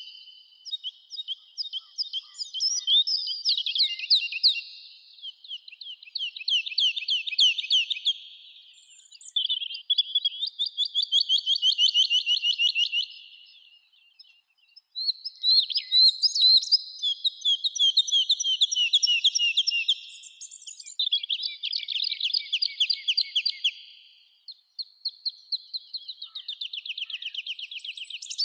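Songbirds singing: about six fast, high trilled songs, each lasting a few seconds, one after another with short pauses between.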